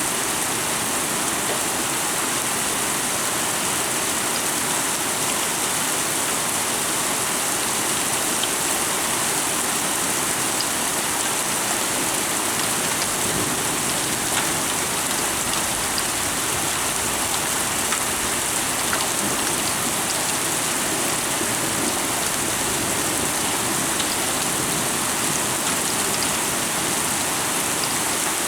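Heavy thunderstorm downpour: rain pouring down steadily in an even hiss.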